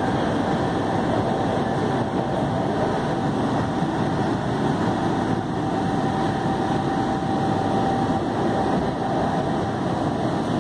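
Inside a moving electric commuter train: a steady rumble of wheels on rails and carriage running noise, with a thin steady whine that fades near the end.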